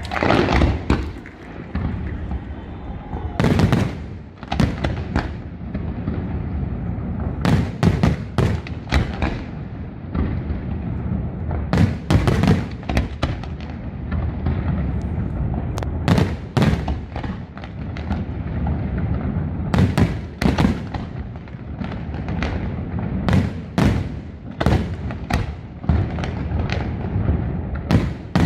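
Aerial fireworks shells bursting in quick succession: sharp bangs and cracks come in clusters every few seconds over a continuous low rumble of distant detonations.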